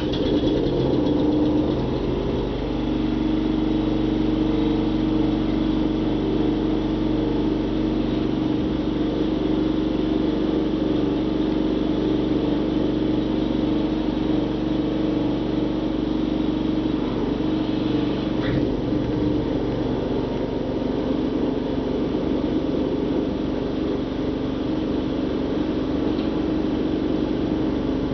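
Simplicity snow blower engine running steadily, a loud even drone.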